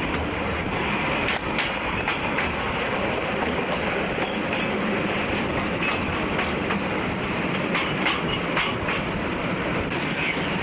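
Train running steadily along the track, with a dense rumble and wheels clicking over rail joints, the clicks coming in clusters.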